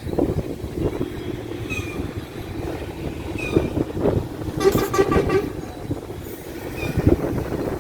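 A short horn toot, one steady pitched blast of about half a second, about five seconds in, over a steady outdoor rumble.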